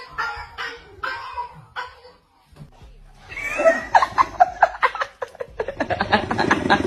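A person laughing: a quick run of short 'ha-ha' pulses that starts about three seconds in and carries on to the end.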